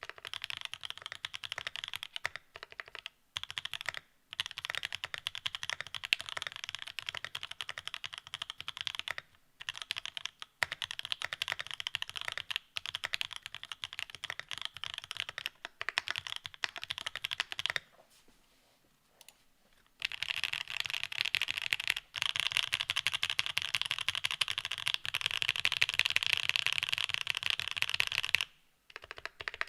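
Mode The New Eighty mechanical keyboard with Marshmallow R2 linear switches and Domikey Gift cherry-profile keycaps being typed on at a fast, continuous pace. The typing stops for about two seconds about two-thirds of the way in, then resumes.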